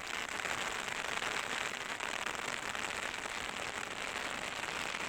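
Steady rain falling on a large umbrella: a dense, even patter of drops on the canopy.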